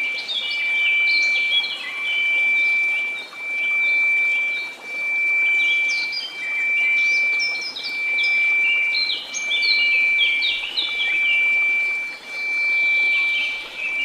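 A steady, pure 2334 Hz tone held without a break, laid over bird chirps and song made of many quick, short calls, with the whole sound swelling and fading about every one and a half seconds.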